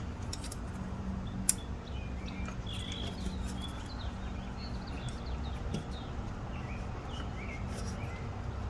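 Small birds chirping in short, faint calls over a low steady background rumble, with a single sharp click about a second and a half in.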